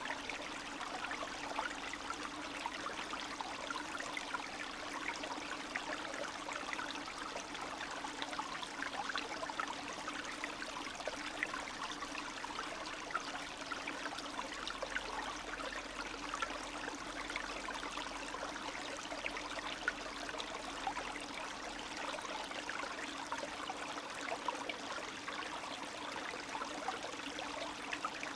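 A small spring-season stream flowing and trickling over stones, with a steady, unbroken babble of many small splashes and gurgles.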